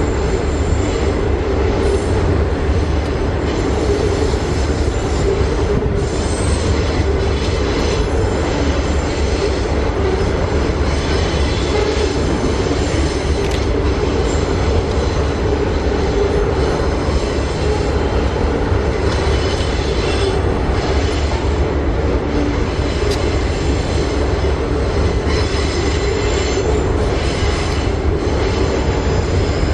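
Double-stack container wagons of a freight train rolling past, a steady low rumble with a faint, high, wavering wheel squeal over it.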